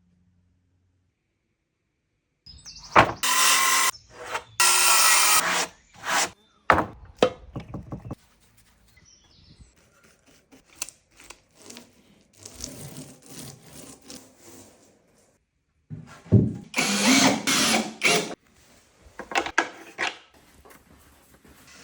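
A power tool, such as a drill or driver, running in short bursts on wood, with quieter scraping and light knocks between the bursts.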